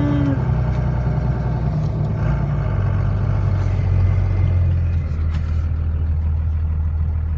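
Truck engine running steadily while driving, a continuous low hum.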